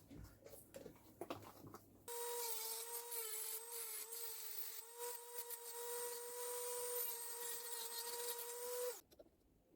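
A high-speed rotary tool with a sanding stone runs with a steady whine and the hiss of the stone grinding on the sheet-metal edges of the slits cut in a chainsaw muffler. It starts about two seconds in after a few light handling clicks, and stops abruptly about a second before the end.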